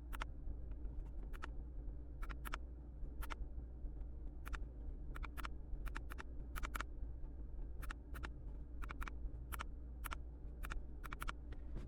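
Plastic button clicks from a handheld OBD2 scan tool being pressed through its menus: irregular single and quick double clicks, over a steady low hum.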